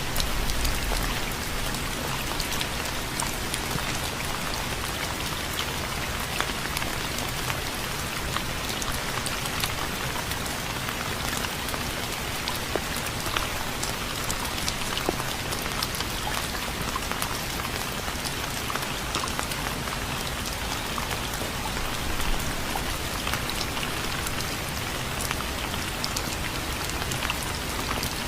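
Steady rain falling on a surface, an even hiss dotted with many individual drop taps.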